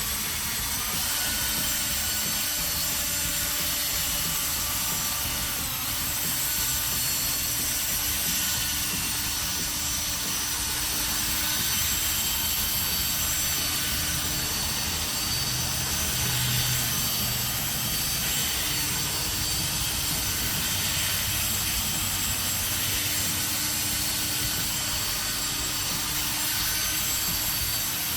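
Drill spinning a polishing pad loaded with polishing compound against a plastic headlight lens, running steadily with the pad rubbing on the plastic. This is the final polishing step of headlight restoration.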